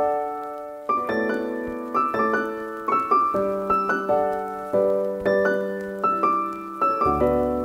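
Calm solo piano background music, notes and chords struck about twice a second and fading away; a deeper bass note comes in near the end.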